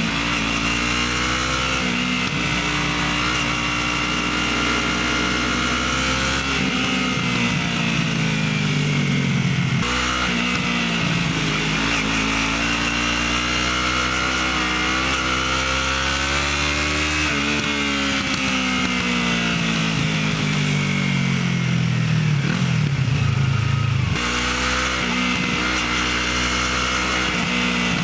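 Motorcycle engine running through its stock exhaust, the pitch rising and falling several times as the revs climb and drop.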